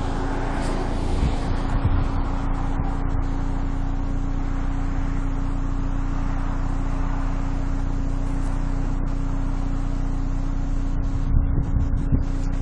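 Motor vehicle engine idling: a steady low hum with one constant droning note, which cuts off at the very end.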